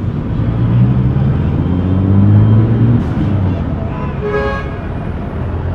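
City street traffic: a motor vehicle passes close, its engine note rising as it accelerates and loudest about two seconds in, over a steady traffic rumble. A brief high-pitched tone sounds about four seconds in.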